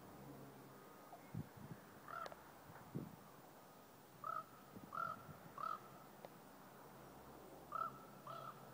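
A bird calling outdoors in short arched notes, about six calls, singly and in close pairs. A few soft low thumps come in the first three seconds.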